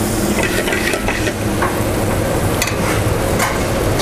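Cherry peppers sizzling in hot garlic oil in a sauté pan, with a few sharp clinks against the pan, over the steady noise of a kitchen exhaust hood.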